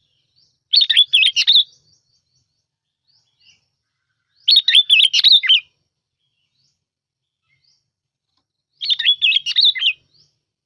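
A sooty-headed bulbul sings three short, bubbly whistled song phrases, each about a second long, a few seconds apart. The recording is played as a lure song.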